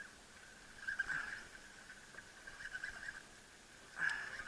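Faint outdoor ambience: a steady, pulsing high chirring chorus of small calling animals, swelling slightly about a second in and again near the end.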